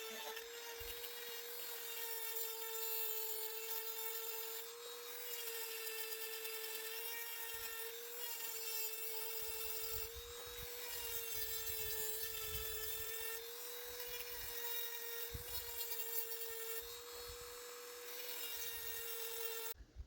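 Dremel rotary tool grinding a chainsaw chain: a steady high whine that dips slightly in pitch every second or two as the stone bears on each cutter, cutting off at the very end.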